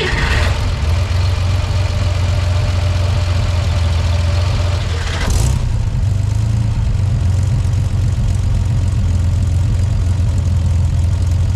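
1965 Chevrolet Corvair air-cooled flat-six, fuel-injected with distributorless ignition, idling steadily on a cold start just after firing up almost instantly. First heard at the engine bay, then from about five seconds in at the tailpipe, where a short burst of noise is heard.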